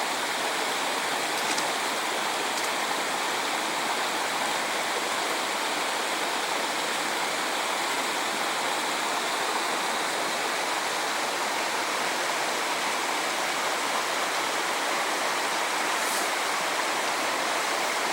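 Steady rush of water in a mountain stream, an even, unbroken noise.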